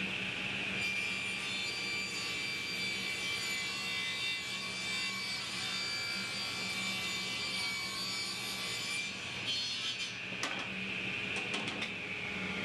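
Power saw running steadily and cutting through wood, with a few sharp knocks near the end.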